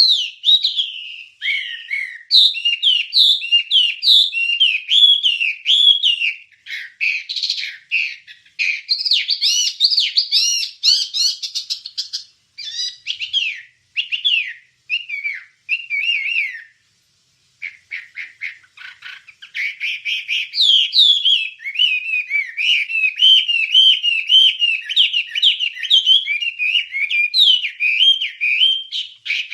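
Wambie songbird singing a fast, continuous chatter of short chirps and sweeping whistled notes, breaking off for about a second partway through before resuming.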